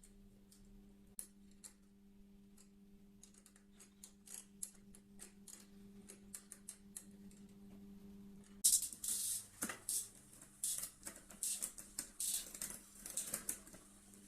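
Scattered sharp mechanical clicks over a low steady hum. About two-thirds of the way through, the clicks turn into a louder, busy run of rapid, irregular clicking and rattling.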